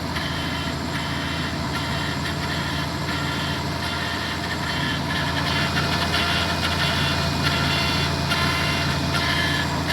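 Toyota 1MZ-FE 3.0 L V6 from an Avalon, newly swapped into a 1997 Camry, idling steadily with faint irregular ticks over the hum. An onlooker takes the noise for the oil pump and says it might be a bad oil pump.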